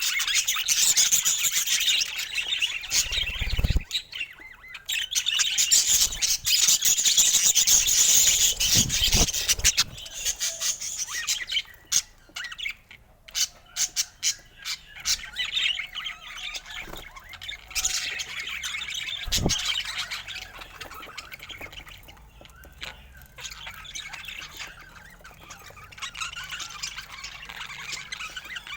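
A group of budgerigars chattering and squawking, with dense, rapid warbling for about the first ten seconds that then thins out to scattered calls. A few brief low thuds come in along the way.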